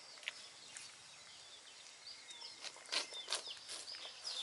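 Faint bird chirps in the background, short high calls repeated every so often, with a few soft clicks about three seconds in.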